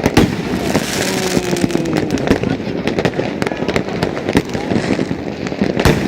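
Fireworks and firecrackers going off thick and fast: many overlapping bangs and cracks every second over a constant crackle, with one louder bang near the end.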